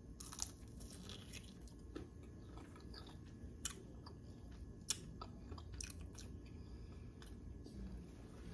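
Close-up chewing of a bite of fried pork rib, with scattered, irregular crunching clicks from the fried coating.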